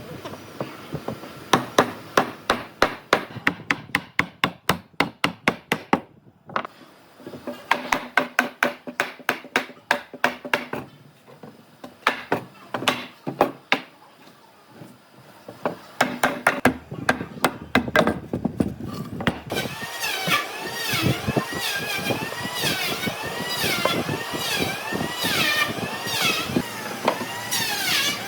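Quick hammer blows on wood, about four to five a second, in bursts with short pauses between. In the last third a warbling tone rises and falls over and over alongside the blows.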